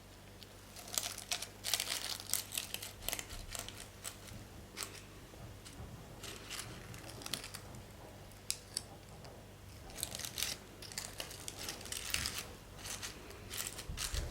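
Irregular crinkling and rustling, like wrapping or packaging being handled, in quick crackly bursts that begin about a second in and run on with short pauses.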